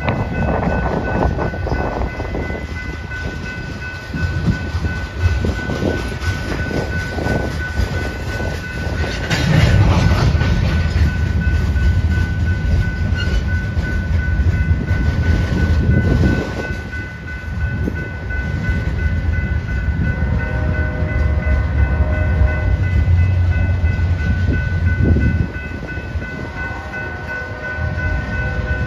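Freight train tank cars rolling past close by: a low rumble of steel wheels on rail with knocks over the rail joints and a steady high-pitched wheel squeal. A faint horn chord sounds from about twenty seconds in for several seconds.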